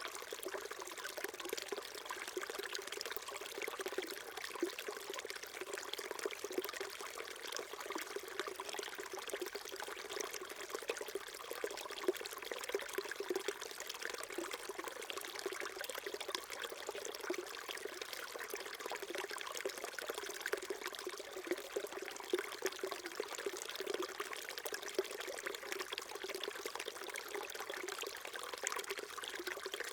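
Small mountain stream babbling and trickling over rocks, a steady splashing with constant small gurgles.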